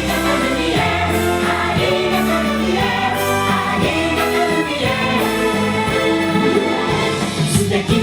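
A song sung by several voices together over instrumental backing.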